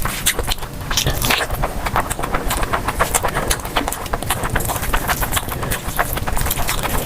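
Close-miked eating sounds: wet chewing, mouth smacking and crunching, with many quick, irregular clicks.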